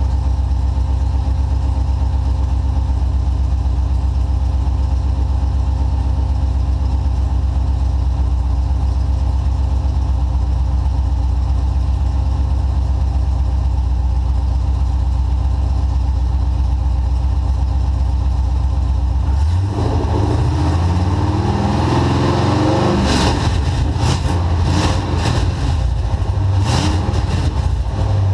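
A 1991 Camaro's V8 engine idling steadily on its first start, then revved in a series of short, uneven blips about twenty seconds in before settling back to idle near the end.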